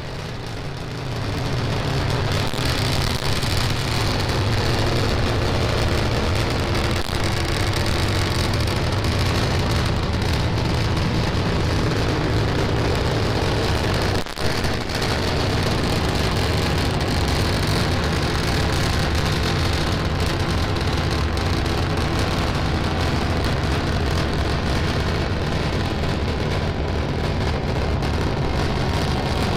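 Starship SN10's three methane-fuelled Raptor rocket engines firing during ascent: a steady, rough rumble with crackle, dipping briefly about halfway through.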